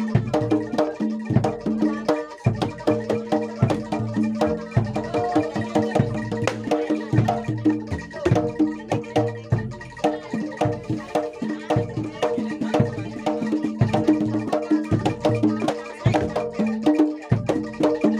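Live Javanese gamelan music for a kuda lumping dance: drum strokes and struck tuned percussion playing a steady, driving rhythmic pattern over ringing held tones.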